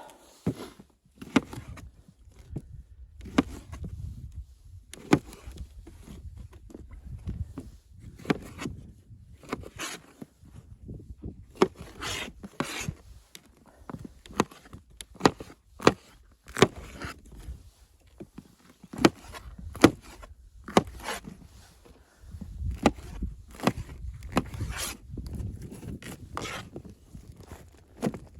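Irregular sharp knocks and clicks, about one or two a second, with rubbing and scraping and a low rumble between them.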